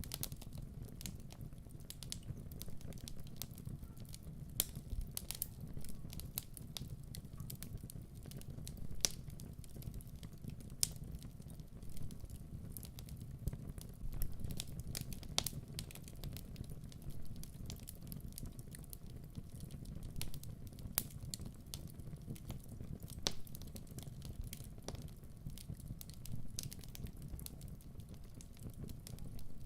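Wood fire burning in a fireplace: a steady low rumble with irregular crackles and sharp pops, several each second.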